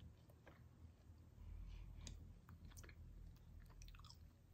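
Near silence, with a few faint, scattered mouth clicks from a person chewing chicken wing.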